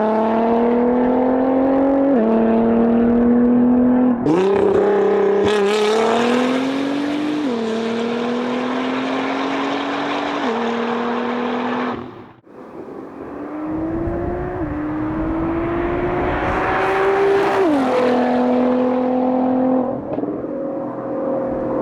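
Nissan GT-R R35's twin-turbo V6 exhaust accelerating hard through the gears, its pitch climbing and then dropping sharply at each quick upshift. About halfway through, the sound breaks off briefly and starts again with another run of pulls and upshifts.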